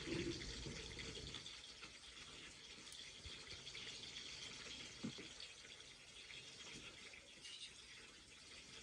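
Faint, steady watery hiss, with a single short knock about five seconds in.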